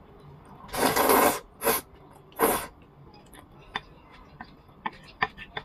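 Zhajiang noodles slurped in three noisy pulls, the first the longest, followed by scattered soft clicks of chewing.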